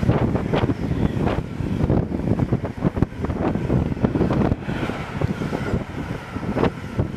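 Freight train's empty container flat wagons rolling past at speed: a steady rumble of wheels on rail with irregular clattering knocks, and wind buffeting the microphone. The rumble eases off a little in the last couple of seconds.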